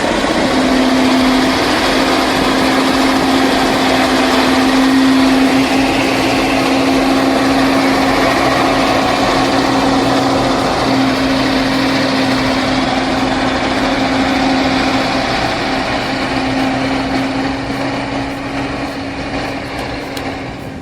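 A heavy vehicle's engine runs steadily under load, with a constant droning tone that eases off slightly near the end.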